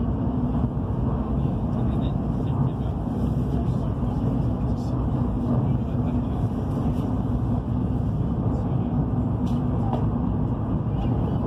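Steady rumble and rush of a high-speed train heard from inside the passenger car as it runs along the line.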